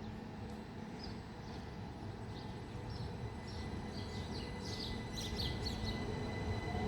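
Small birds chirping in short, scattered calls, busiest about four to six seconds in, over a steady low background rumble that grows a little toward the end.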